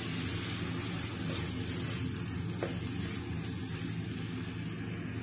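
Green peas frying with onions in a nonstick wok: a steady sizzle, with a spatula stirring and lightly knocking the pan twice.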